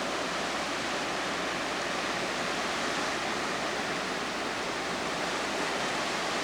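Ocean surf rushing onto the shore as a steady, unbroken wash.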